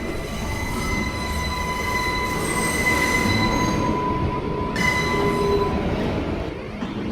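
New York City subway train rolling through the station, its steel wheels squealing on the rails with a steady high-pitched tone over the rumble of the cars. The squeal fades out about five to six seconds in.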